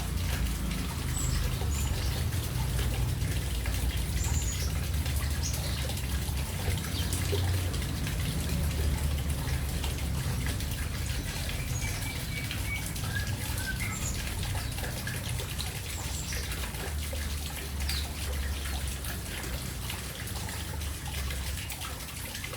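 Small birds bathing: water splashing and trickling with wing flutters, and short high chirps scattered throughout, over a steady low rumble.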